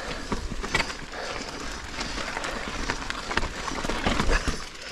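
A Giant Reign full-suspension mountain bike rolling down a rocky technical chute: tyre noise over rock, with frequent knocks and rattles from the bike as it hits the bumps.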